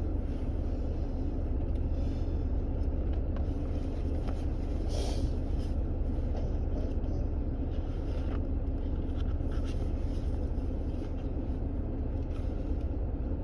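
Steady low rumble of a car cabin with the engine running, with a few faint rustles and ticks over it.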